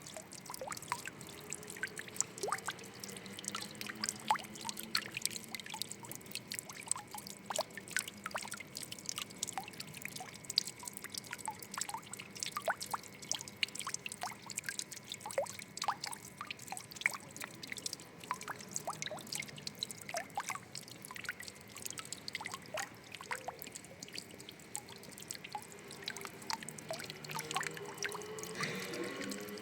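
Water trickling and dripping, with a dense run of small sharp drips over a steady wash and a low wavering gurgle now and then.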